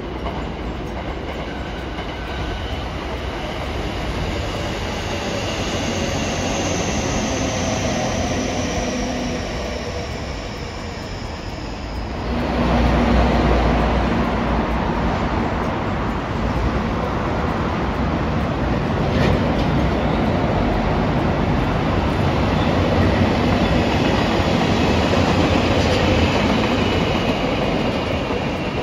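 A train running by on the rails: a steady rumble of wheels with a high whine that falls slowly in pitch. About twelve seconds in the sound suddenly grows louder and stays loud, easing off near the end.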